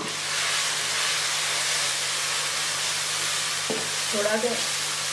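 Chicken and spice masala sizzling in hot oil in a non-stick wok while being stirred with a wooden spatula, a steady frying hiss that grows louder just after the start. A single knock of the spatula on the pan comes about three and a half seconds in.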